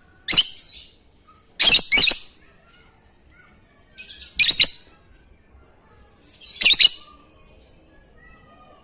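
Lovebird giving short, shrill calls in sharp bursts, about five of them, some in quick pairs, with a second or two of quiet between them.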